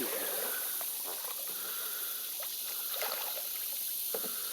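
Kayak paddle dipping and splashing in shallow water, with a few soft knocks against the hull, over a steady high outdoor hiss.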